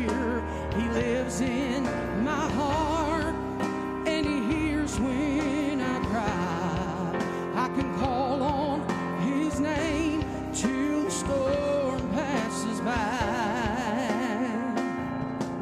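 Live gospel song: a wavering vibrato melody line, most likely a singer's wordless run between verses, over steady instrumental accompaniment.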